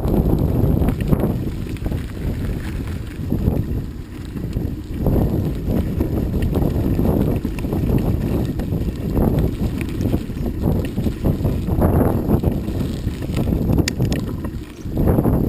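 Wind buffeting the microphone of a camera carried on a moving bicycle: a loud, gusty low rumble that rises and falls, briefly easing twice.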